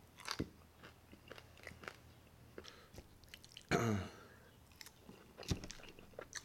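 Close-up chewing and crunching of crispy deep-fried pork skin (chicharrón), with scattered sharp crackles. There is one louder, brief sound with a falling pitch about four seconds in.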